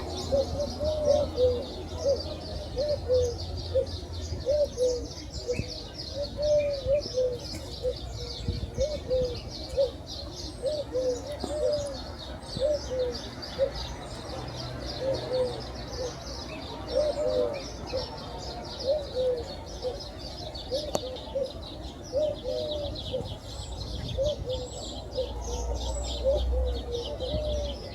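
Many birds calling together in a bird park. Short, low, arched calls repeat over and over, above a continuous dense high chirping of small birds.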